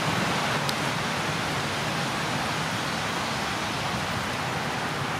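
Steady hiss of light drizzling rain, picked up by a microphone covered with a plastic bag, with one faint tick under a second in.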